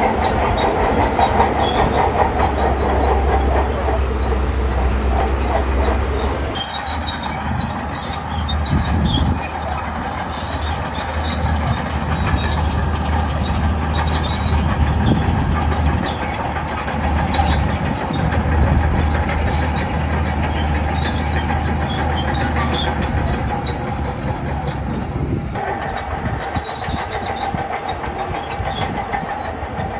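Shantui crawler bulldozer's diesel engine running steadily, with scattered small clanks from its steel tracks. The low engine drone drops abruptly about six seconds in and the sound shifts again near the end.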